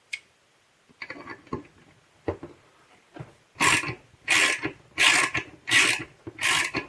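Ratchet wrench with a 10 mm socket turned in short back-and-forth strokes, loosening the nut on a tape gun's spindle. A few light clicks come first, then about halfway in, five rasping ratchet strokes at a steady rhythm.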